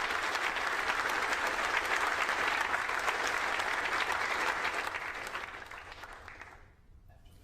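Mission control team applauding, the clapping dying away from about five seconds in.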